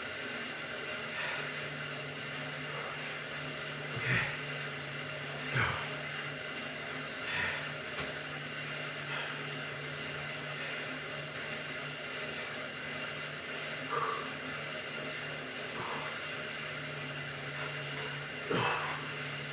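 Stationary exercise bike whirring steadily as it is pedalled, with a few short knocks along the way.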